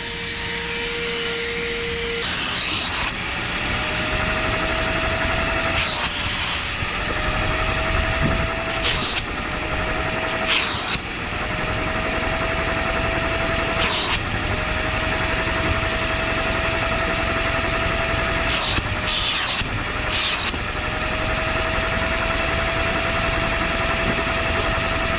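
A motor running steadily, its pitch creeping up and then sagging briefly every few seconds, with several short, sharp hissing bursts over it.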